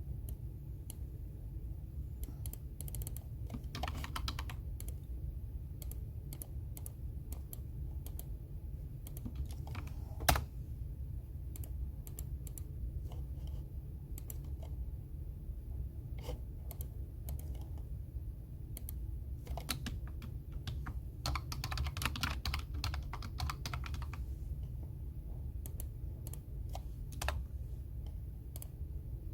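Computer keyboard typing in uneven bursts: scattered single key clicks with two quick runs of typing, and one sharper, louder click about ten seconds in, over a steady low hum.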